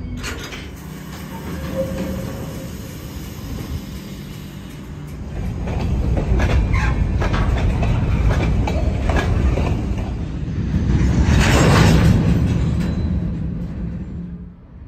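Freight train of covered hopper cars rolling past, the steel wheels rumbling on the rail with a run of clicks over the rail joints, swelling louder about eleven seconds in.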